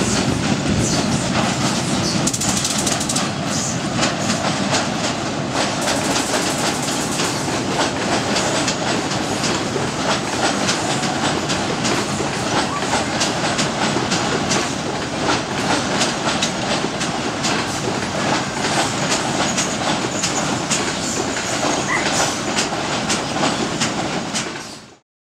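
Passenger train crossing a steel truss bridge, its wheels clattering rapidly over the rail joints above a steady rumble. The sound fades out quickly near the end.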